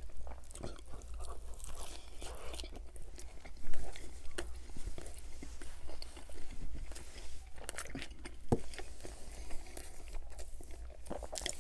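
Close-miked mouth sounds of a man chewing a mouthful of chicken club sandwich, wet smacking with scattered small crunches and clicks. One sharper bite stands out about four seconds in.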